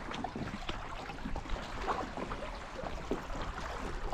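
Water splashing and lapping lightly around a small boat, in many small irregular splashes.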